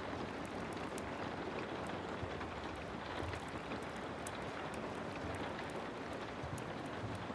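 Heavy rain falling steadily, a dense even hiss, with scattered sharp ticks and crackles over it.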